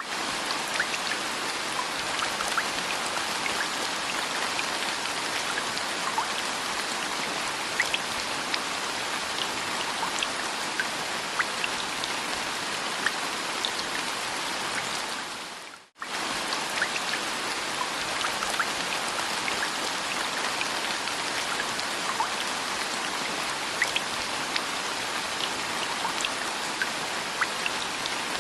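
Steady rain falling, a dense hiss with many individual drops ticking on a surface. The sound drops out sharply about halfway through and starts again at once, as a repeating rain loop does.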